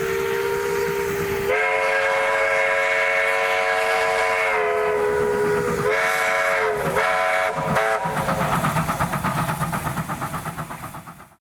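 NZR Ww class 480 steam tank locomotive sounding its whistle: a short blast, a long one, then three quick short toots. After that come fast rhythmic exhaust beats as the engine works, and the sound cuts off abruptly near the end.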